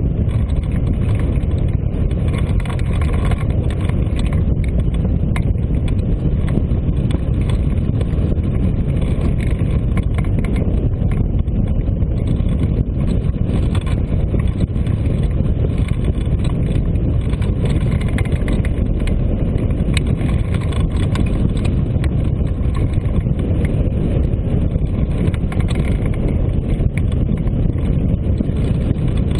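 Steady wind buffeting the microphone, a loud low rumbling rush with no letup, as in airflow during a hang-glider flight.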